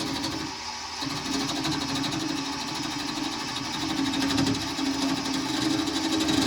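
Wood lathe spinning a wooden baseball-bat blank while a turning tool cuts it: a steady hum with a rapid, even chatter, easing briefly about half a second in.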